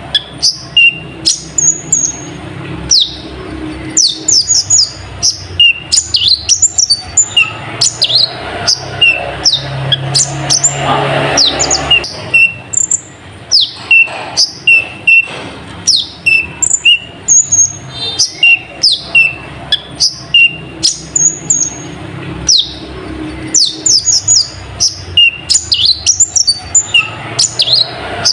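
Kolibri ninja (a sunbird) singing: a rapid, continuous run of sharp, high downward-sweeping chirps and short repeated whistles, its song filled with learned nightjar ('cabak iblis') calls.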